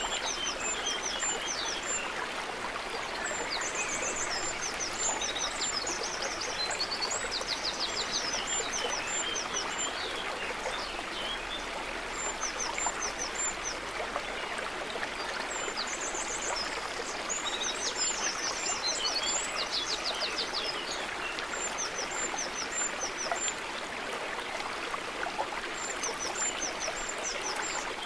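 A stream of running water flowing steadily, with small birds singing high chirps and quick trills over it in short bursts of song that come and go.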